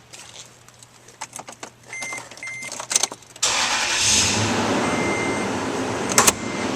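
Key clicks and two short beeps, then the 2005 Toyota Tundra's 4.7-litre V8 starts abruptly about three and a half seconds in and settles into a steady idle, with a sharp click near the end.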